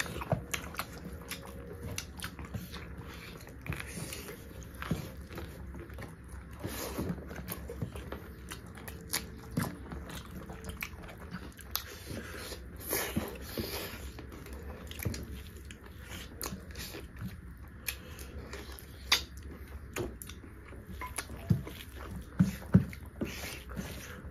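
Close-up chewing of beef curry and rice by two eaters: irregular wet mouth clicks and chewing noises, a few of them louder near the end.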